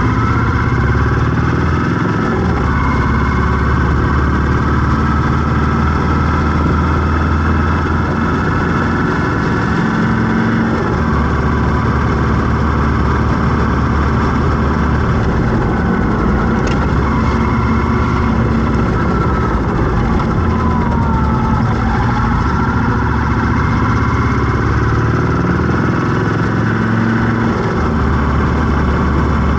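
Road traffic: vehicle engines running steadily close by, with a few rising and falling tones over the top.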